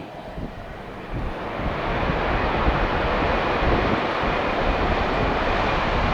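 Airbus A320-200 jet airliner's engines on its landing run, swelling to a loud, steady rush over the first couple of seconds.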